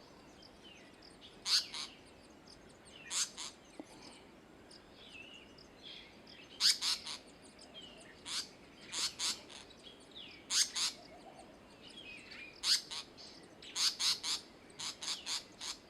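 Indian paradise flycatcher giving short, harsh chirps, some single and some in quick runs of two to four, at irregular intervals every second or two.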